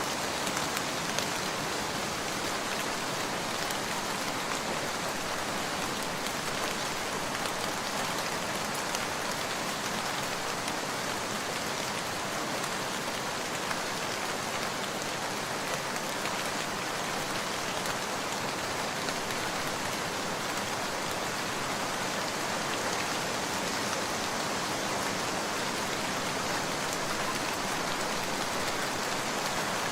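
Steady rain falling: an even hiss with many fine drop patters, unchanging throughout.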